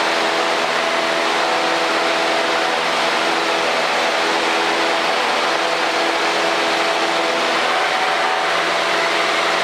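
Cessna 152's four-cylinder Lycoming engine and propeller running steadily at climb power, heard as cockpit noise through the intercom: an even rushing hiss with several steady hum tones under it.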